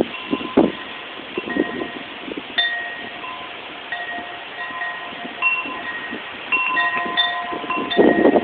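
Wind chimes ringing: several different notes are struck at irregular moments and each rings on, over a steady hiss.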